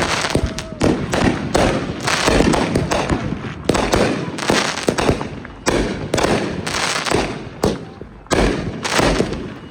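Consumer fireworks going off one after another: repeated sharp bangs overlapping with crackling, a new burst about every second.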